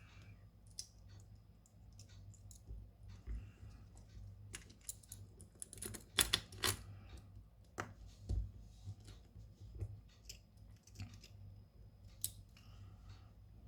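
Small hand tools clicking, tapping and scraping on a smartphone during screen-glass repair work, in irregular short clicks with a louder cluster about six seconds in.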